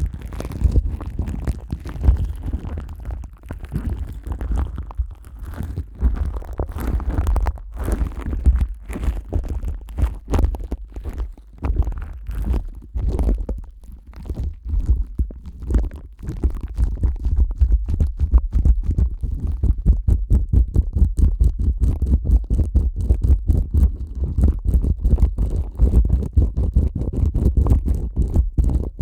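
Plastic wrap stretched over a dummy-head microphone's ears, rubbed and pressed by hands in rubber gloves: close, muffled rustling and rubbing with a heavy low rumble. From about halfway the strokes turn rapid and even.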